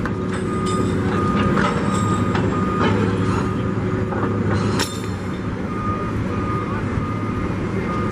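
Heavy demolition machine's diesel engine running steadily while its backup alarm beeps in a repeating on-off pattern, with a few sharp cracks and knocks of breaking material, the loudest about five seconds in.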